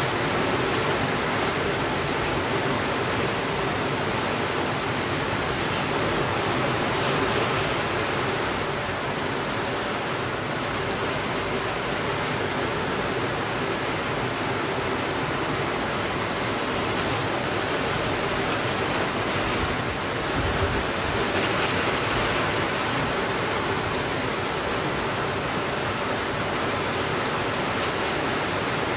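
Steady, continuous rainfall with an even hiss and no thunder.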